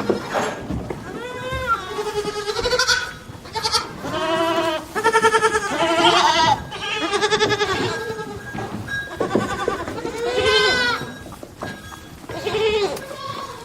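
Goats bleating: a run of about eight wavering calls at different pitches, some running into one another.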